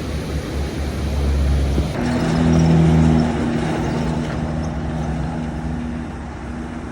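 Heavy diesel vehicle passing close by: a low rumble turns into a clear engine note about two seconds in, loudest shortly after, then slowly fading.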